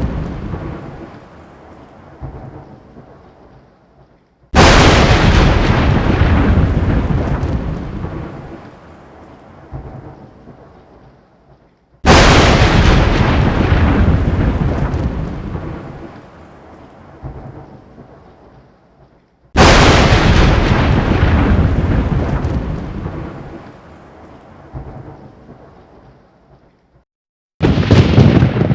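Thunder: a fading rumble, then four sharp thunderclaps about seven and a half seconds apart. Each starts suddenly and rolls away over several seconds.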